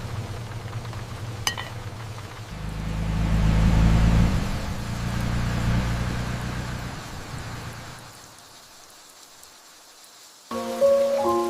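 A motor vehicle's engine rumbling low and steady, swelling louder about three to four seconds in, then fading away. Soft music starts near the end.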